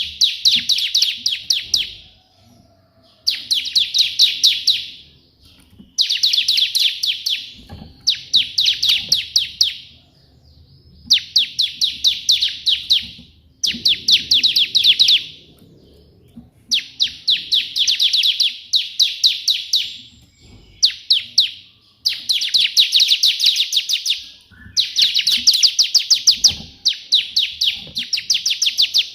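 A bar-winged prinia (ciblek) singing in the rapid 'tembakan' (shooting) style: about ten bursts of fast, sharp, high chattering notes, each lasting one to three seconds, separated by short pauses.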